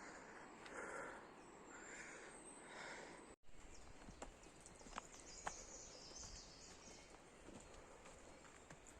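Footsteps on a forest trail, soft and about one a second, until a sudden cut a third of the way in. After that, faint forest ambience with two sharp clicks in quick succession and faint high chirps near the end.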